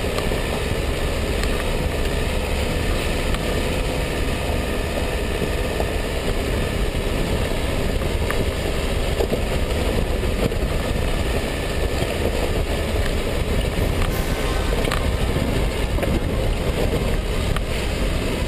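Steady running noise of a Dacia Duster 1.5 dCi 4x4 on the move: its diesel engine and tyre rumble, at an even level with a few faint ticks.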